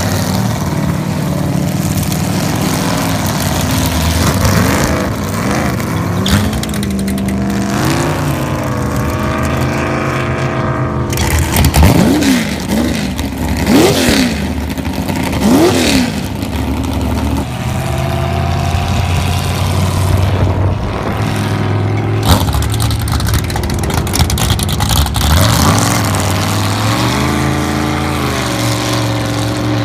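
SK-class race boat engines starting and running, blipped repeatedly so the pitch rises and falls. Several quick revs come close together around the middle, over the steady running of more than one engine.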